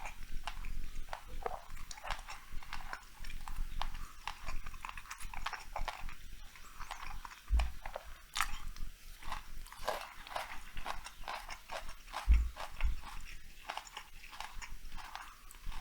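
Cat eating raw meat close to a lapel microphone: a steady run of small wet chewing clicks and smacks.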